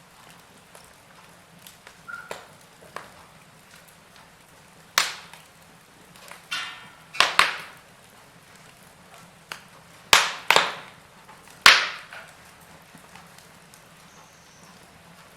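Wood fire crackling in a fireplace: irregular sharp pops and snaps over a faint steady hiss, with a cluster of the loudest snaps between about seven and twelve seconds in.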